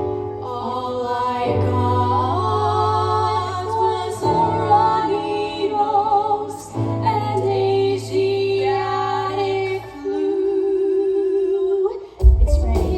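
Music: a woman singing long held notes with vibrato over a steady low accompaniment. About twelve seconds in, a sudden loud low rumble comes in.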